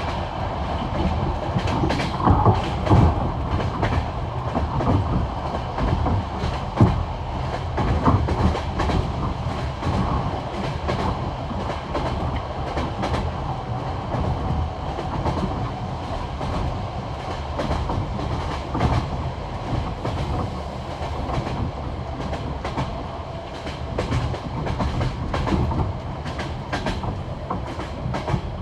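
Passenger train wheels clacking rhythmically over the rail joints of old jointed (non-welded) track at speed, over a steady rolling rumble, heard from inside the carriage. A few knocks come out louder about two to three seconds in and again around seven seconds.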